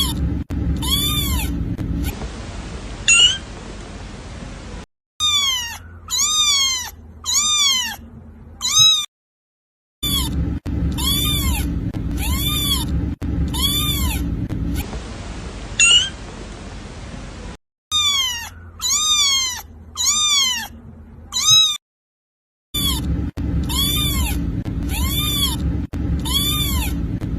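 Kitten meowing: short high meows in quick runs of three to five, each rising and falling in pitch, in looped clips joined by sudden cuts.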